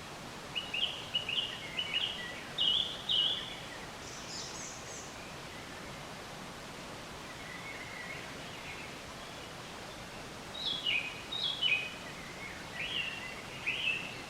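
Songbirds singing in two bursts of quick, repeated chirping notes, some sliding down in pitch, over a steady background hiss.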